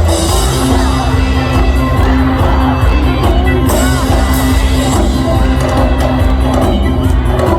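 Loud live band music: the instrumental break of a trot song, played steadily without a pause.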